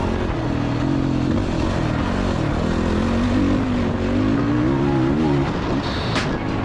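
Dirt bike engine running on a motocross track, its revs rising and falling as the throttle is worked.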